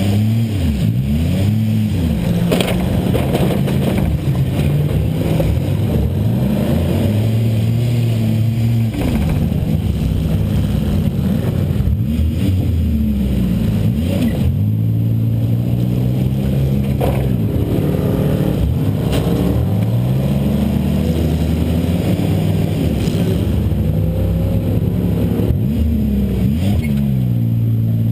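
Buick LeSabre's 3.8-litre V6 engine, heard from inside the car, revving up and dropping back again and again as the car accelerates and backs off, with several sharp knocks of impact between the revs.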